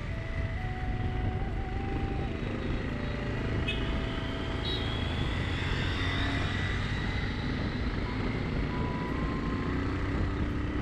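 Motor scooter riding at steady speed: continuous engine and road rumble, with wind on the microphone.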